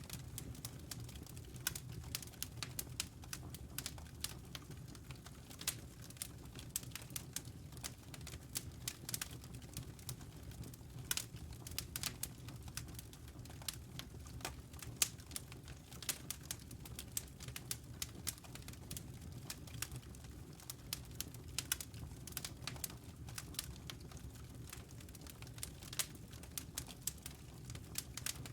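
Wood fire burning in a fireplace: irregular sharp crackles and pops, several a second, over a low steady rumble.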